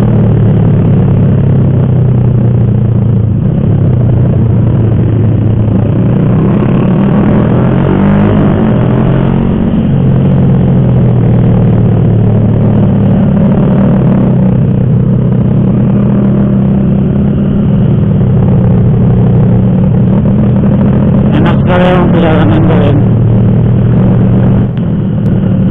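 Motorcycle engine running steadily under way, with wind rush over the microphone; the engine note shifts briefly around eight to ten seconds in.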